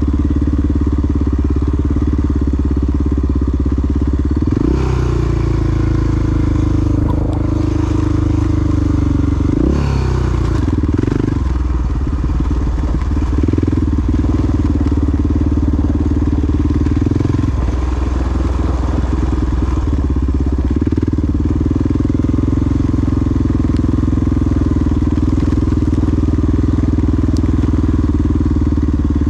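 Big single-cylinder four-stroke dual-sport motorcycle engine running under way. The engine note climbs sharply twice in the first ten seconds or so as the throttle is opened, then holds a steady cruising note.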